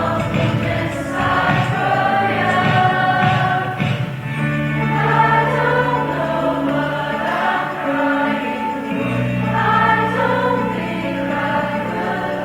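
A choir singing live in parts. Long, steady low bass notes enter about four seconds in and change again around nine seconds.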